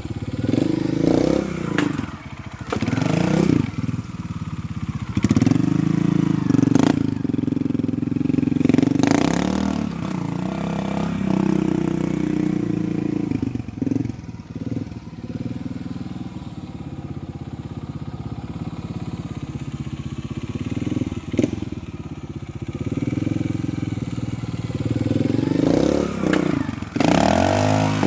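Trials motorcycle engine running at low revs with repeated throttle blips, its pitch rising and falling, mixed with several sharp knocks.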